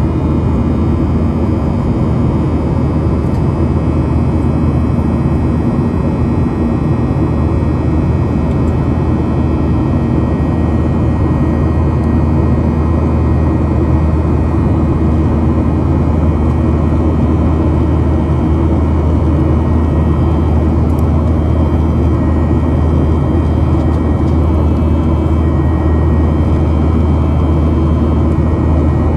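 Boeing 737-800's CFM56-7B jet engines running steadily, a loud, even drone with a few steady tones in it and no change in pitch or level.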